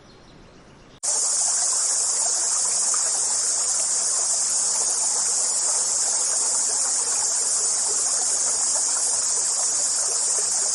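Steady, high-pitched insect chorus over the rush of a stream, cutting in suddenly about a second in.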